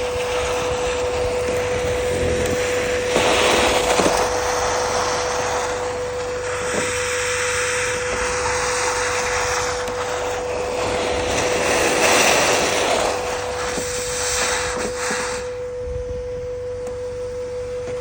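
SkyVac 85 two-motor industrial gutter vacuum running with a steady hum, while the rush of air and gutter debris drawn up the hose swells and drops in surges.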